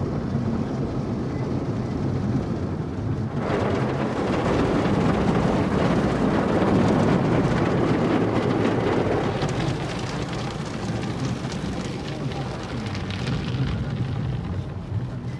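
Automatic car wash spraying water onto a car, heard from inside the cabin: a rain-like rush of water hitting the body begins suddenly about three seconds in, swells, then slowly eases, over a steady low hum.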